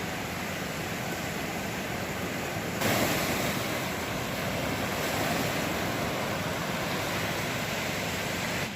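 Ocean surf washing onto the beach with wind buffeting the microphone, a steady rushing noise that turns suddenly louder and brighter about three seconds in.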